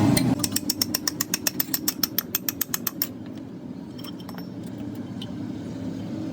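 Rapid, evenly spaced sharp clicking, about eight clicks a second for some three seconds, which then stops, leaving a low steady hum with a few faint ticks.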